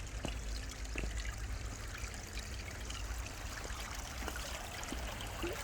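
Stream water flowing and trickling steadily, an even rushing hiss.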